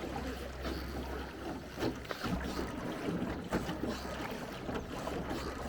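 A small rowed tour boat on the river: oars working in the water with irregular short knocks and splashes. Wind rumbles on the microphone and drops out briefly about two seconds in.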